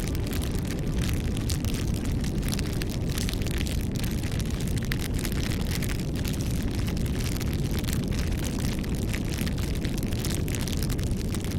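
Bonfire burning with dense, irregular crackling and a steady low rumble.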